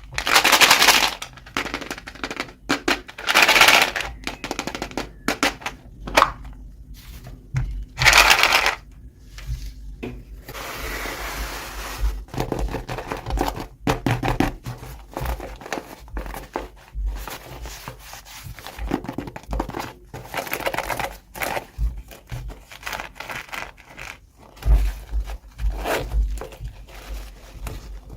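Packaging being crinkled and torn open by hand, in irregular bursts with short pauses between them.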